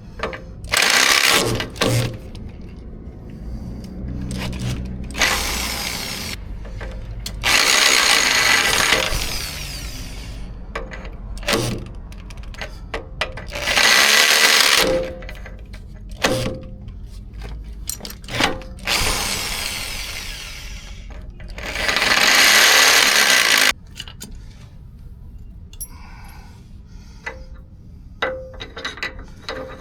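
Power drill run in a series of bursts of a second or two each, reaming out the old aftermarket alignment bushing sleeve from a Chevy K5 Blazer's steering knuckle, with short metal knocks between the bursts.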